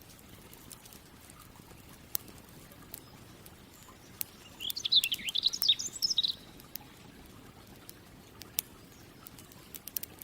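Campfire crackling with scattered sharp pops over a low hiss, and a songbird singing one quick, warbling phrase of about two seconds, starting about four seconds in; the birdsong is the loudest sound.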